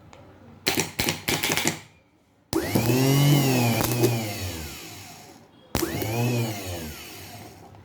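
Denso car starter motor run on the bench: a burst of short crackles, then it spins up with a whine and winds down over about three seconds, and spins up and runs down a second time near the end.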